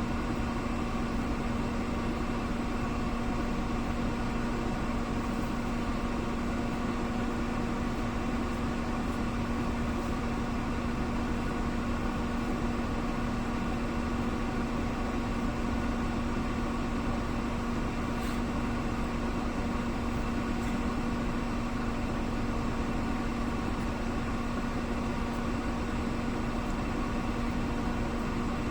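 A steady mechanical hum at one constant pitch, like a motor or engine running evenly, with no change in level.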